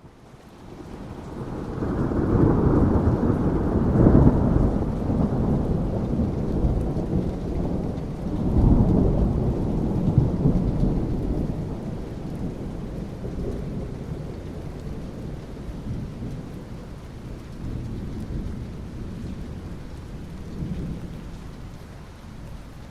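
Thunder rumbling over steady rain. A deep rumble swells in the first few seconds, a second peal comes about eight and a half seconds in, and the thunder then fades slowly, leaving the hiss of rain.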